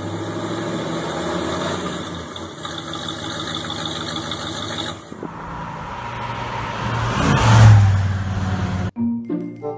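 Vintage California Highway Patrol sedan's engine idling steadily for about five seconds. The car is then heard driving off under acceleration, the engine sound rising to a loud peak, and the sound cuts off suddenly near the end.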